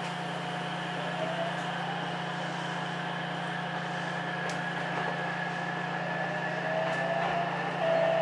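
Ichibata Electric Railway 7000 series electric train running, heard from inside: a steady drone with the motor whine slowly rising in pitch as the train picks up speed.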